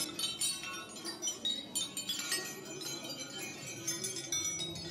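Many steel hammers clinking and ringing against one another in quick, irregular succession, each strike leaving a bright metallic ring.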